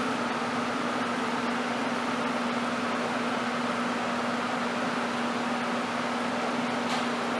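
A car running at an even, steady speed: a constant hum over even engine and road noise, with no change in pitch.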